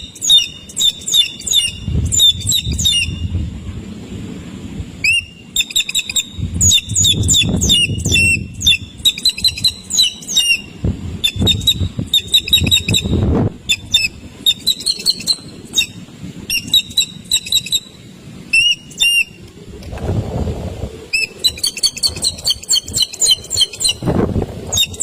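A chick peeping in rapid runs of short, high, repeated calls, with a few brief pauses. Bursts of low rustling or flapping come in at intervals underneath.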